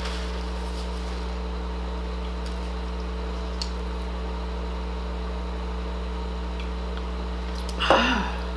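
Steady low hum at an even level, with a faint tick a few seconds in. A short pitched sound, most likely a brief vocal sound, rises out of it near the end.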